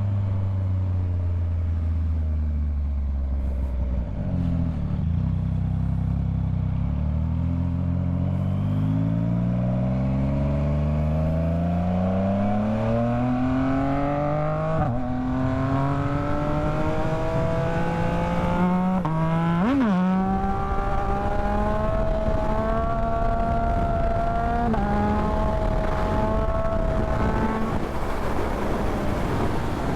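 Yamaha MT-09 three-cylinder motorcycle engine under way, its pitch climbing steadily as the bike gathers speed, with a gear change about halfway through and another near the end, and a brief quick rise and fall in pitch about two-thirds through. Wind rush grows as the speed builds.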